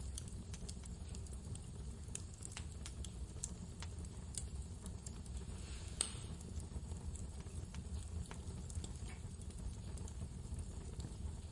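Wood fire crackling in a fireplace, with sharp pops scattered irregularly and one louder pop about six seconds in, over a steady low rumble of blizzard wind.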